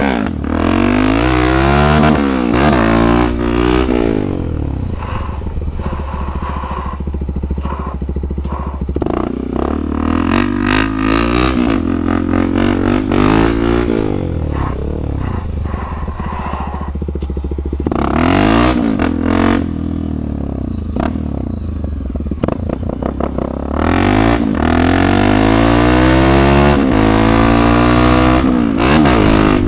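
Single-cylinder motorcycle engine revving up and easing off again and again as the rider pulls wheelies, with a long high rev near the end.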